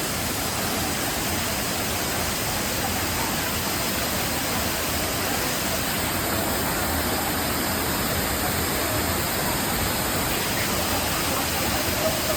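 Waterfall pouring, a steady rushing noise of falling water that holds an even level throughout.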